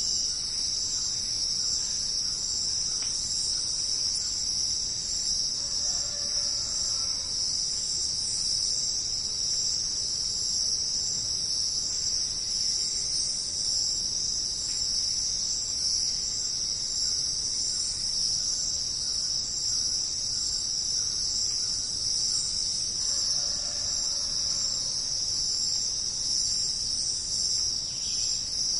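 Dense insect chorus: a steady, shrill, high-pitched drone with no pauses. A faint, softer call sounds twice against it, about six seconds in and again near 24 seconds.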